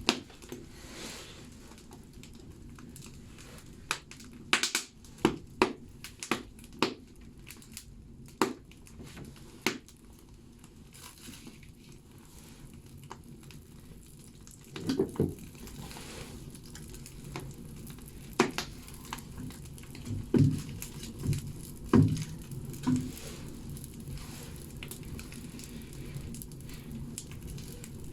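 Firewood burning in a wood-fired bathhouse stove, crackling with sharp, irregular pops over a steady low rumble of the fire. The pops come thickest between about four and ten seconds in, and a few deeper, louder pops follow around the middle and later on.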